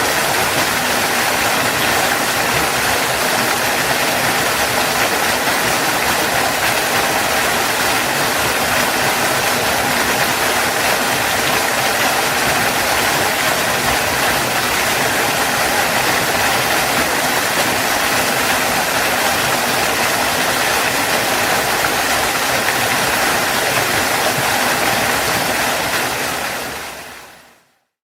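Waterfall: a steady rush of falling water that fades out near the end.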